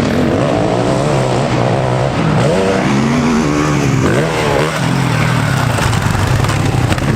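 Off-road vehicle engine running hard and revving, its pitch climbing, dropping and climbing again about midway.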